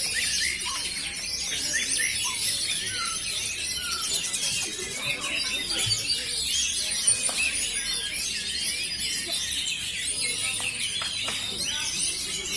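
Many oriental magpie-robins (kacer) singing over one another in a dense, steady chorus of rapid chirps, trills and whistles, as caged birds compete at a songbird contest.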